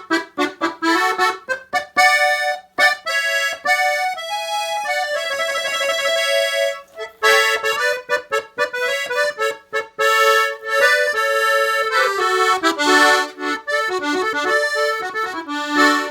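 A Gabanelli accordion played solo: a lively melody of quick, short notes and chords, with a few notes held longer about six seconds in and again near the end.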